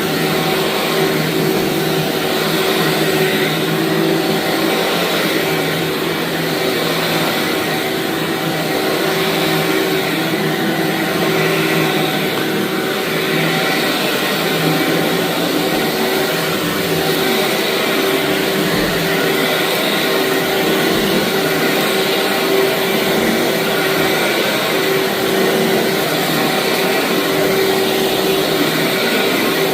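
Vacuum cleaner running steadily over a carpeted rug, a continuous motor hum over airflow noise.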